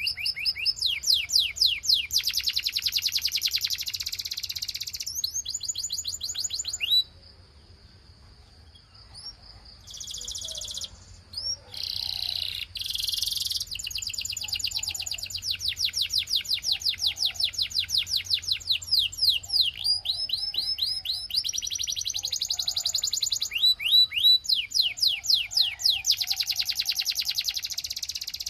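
Belgian canary singing: long, fast trills of repeated sweeping notes, broken about seven seconds in by a short quieter stretch with a held whistle and a few harsh buzzy notes, then more long rolling trills.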